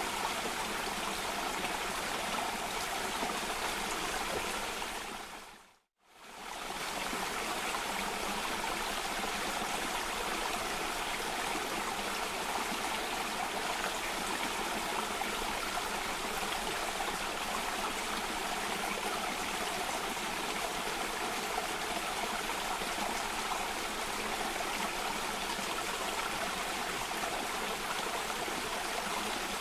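Steady rush of flowing water from a stream or small cascade. It fades briefly to silence about six seconds in and then fades back in, as at the seam of a looped recording.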